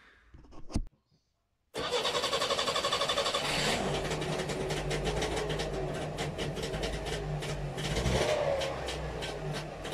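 Trabant 601's two-cylinder two-stroke engine running with a fast, even pulsing, cutting in abruptly after nearly two seconds of near silence.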